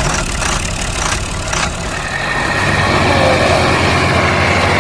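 Engine running with a steady low chug, with a few knocks in the first second or two, then growing a little louder and steadier about halfway through.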